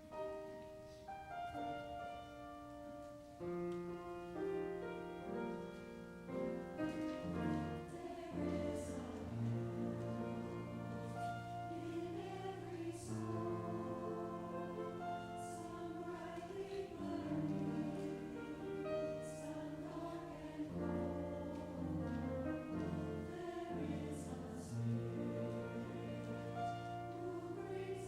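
Church choir singing a slow anthem in sustained chords with instrumental accompaniment.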